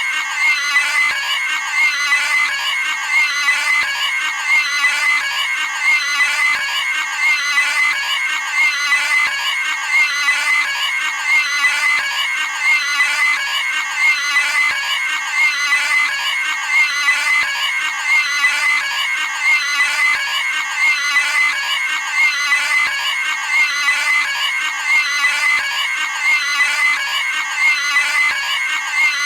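Cartoon pig scream sound effect: a high-pitched squealing scream repeated again and again in an unbroken loop.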